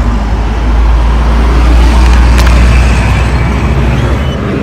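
Road traffic: a vehicle passing close by, a loud low rumble that swells to a peak about halfway through and then fades.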